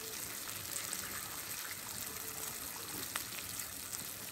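Chicken and potato curry frying in oil in a karahi: a steady sizzling hiss with a few sharp pops of spitting oil.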